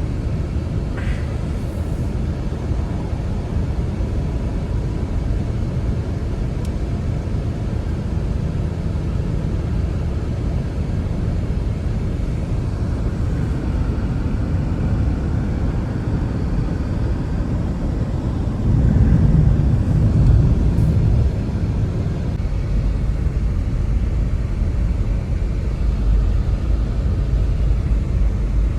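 Strong blizzard wind, a steady low rumble that swells briefly about nineteen seconds in.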